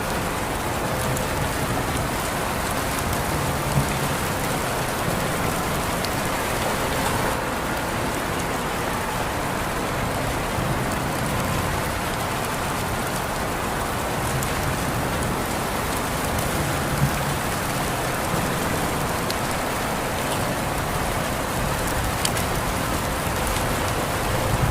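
Steady rain falling, an even hiss with scattered drop ticks and a few sharper drips.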